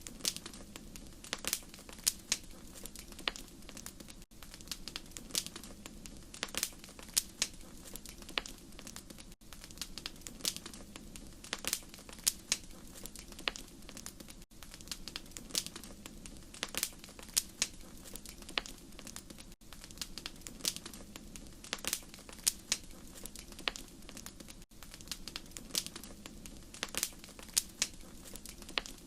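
Wood fire crackling: irregular sharp pops and snaps over a steady low rushing sound.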